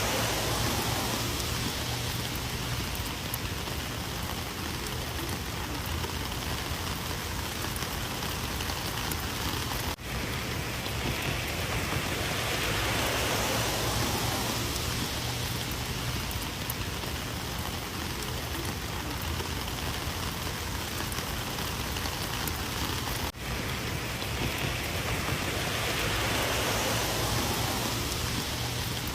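Rain falling steadily: a dense, even hiss of drops on surfaces that swells and eases slowly, with two brief dips in level, about ten seconds in and again about two-thirds of the way through.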